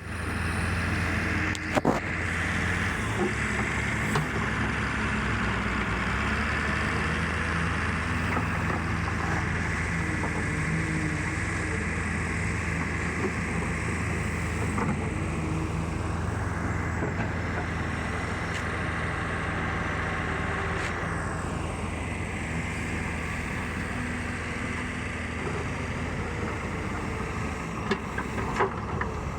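Excavator's diesel engine running steadily, with a few sharp knocks near the start and again near the end, and a couple of sweeping rises and falls in pitch about halfway through.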